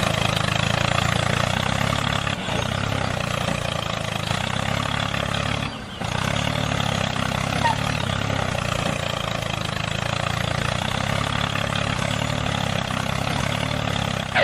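A small engine running steadily at an even idle, with a brief drop about six seconds in.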